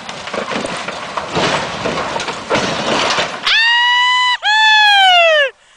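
About three seconds of loud, noisy rumbling and clattering with many sharp knocks. Then come two long, high shouted cries, each just under a second, the second one falling in pitch at its end.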